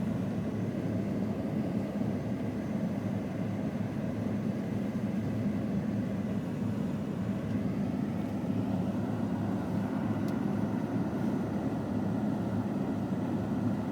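Steady engine and road noise heard inside the cab of a 2006 Ford F-150 pickup driving along a snowy road, a low even rumble that holds the same level throughout.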